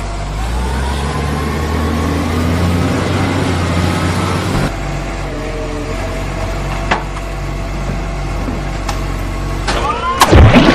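A vehicle engine running steadily, its pitch rising during the first few seconds, with a couple of sharp clicks. Near the end come loud swooping whooshes.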